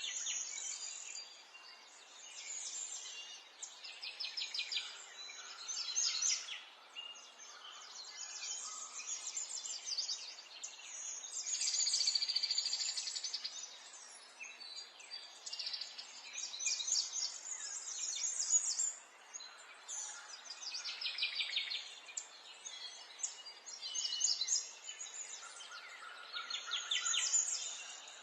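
Several small songbirds chirping and trilling, with overlapping high, fast phrases every second or two over a faint steady background hiss.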